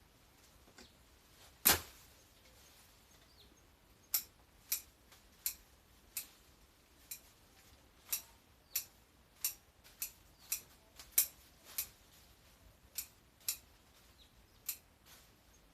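Garden shears snipping through plants: one sharp cut, then a steady run of snips about one and a half a second.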